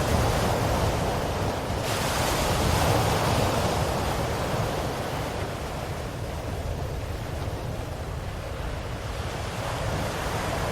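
Ocean waves washing ashore in a continuous surf, swelling and easing slowly: loudest a couple of seconds in, quieter past the middle, building again near the end.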